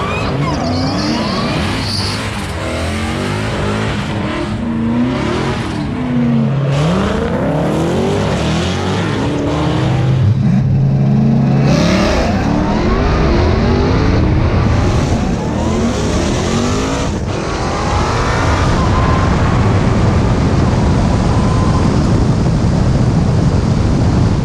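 Car engines revving and accelerating hard, several at once, each pitch climbing and dropping back again and again as they shift through gears.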